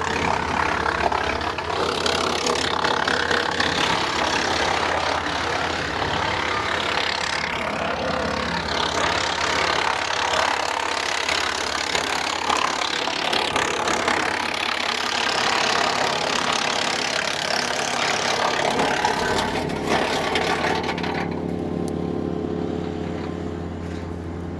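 Tractor-driven Woodland Mills WC68 PTO wood chipper, its flywheel at 540 RPM, chipping dead cedar branches. Near the end the chipping stops, leaving only the tractor engine and the chipper running empty with a steady hum.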